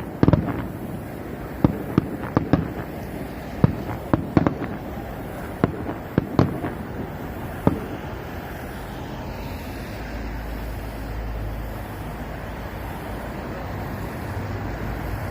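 Fireworks going off: a string of sharp bangs and crackles for about the first eight seconds, then they stop, leaving a steady low rumble.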